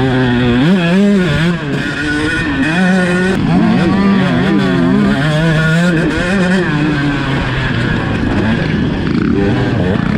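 Two-stroke 125cc motocross bike engine being ridden hard round a dirt track, its pitch rising and falling over and over with the throttle and gear changes.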